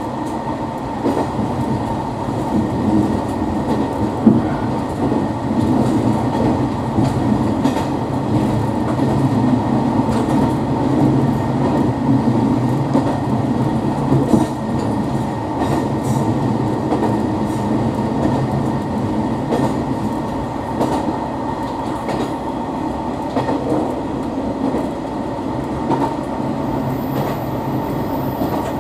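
Hisatsu Orange Railway diesel railcar running along the line, heard from inside the cab: a steady engine and running drone with wheel noise, broken by occasional clacks over rail joints, the sharpest about four seconds in and again near the middle.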